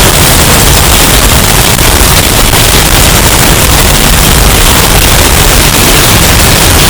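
Hurricane wind sound effect, heavily bass-boosted and overdriven: a constant, very loud, distorted rush of noise with heavy rumbling lows.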